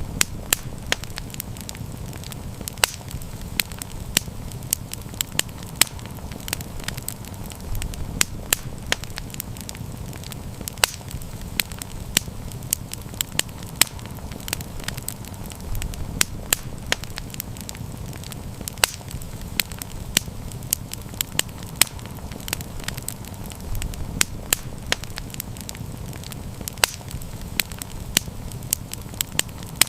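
Wood campfire burning and crackling, with irregular sharp pops over a steady low rushing of flame.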